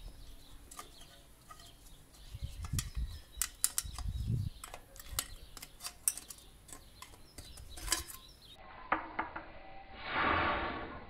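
Scattered sharp clicks and knocks, with a few dull thumps, of hand tools and car body parts being handled while a headlight is fitted to a VW Golf 2's front end. Near the end the sound changes and there is a brief rustling burst.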